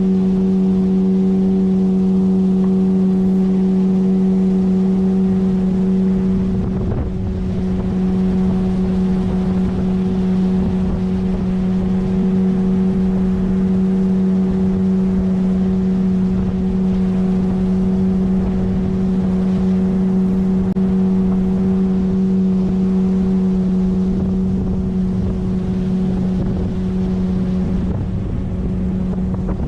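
9.8 hp outboard motor running at a steady speed, driving an inflatable PVC boat, with a constant engine hum and a little wind on the microphone. The level dips briefly about seven seconds in.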